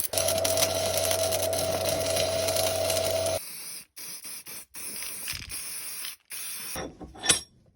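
An electric power tool runs steadily with a hissing, whining noise, then stops abruptly about three and a half seconds in. Quieter scraping and handling sounds follow, with a sharp click near the end.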